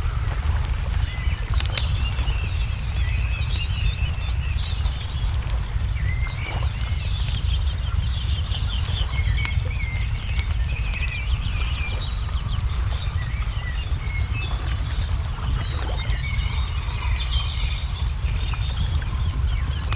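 Small songbirds chirping and twittering continuously, with scattered sharp crackles from a burning wood fire, over a steady low rumble.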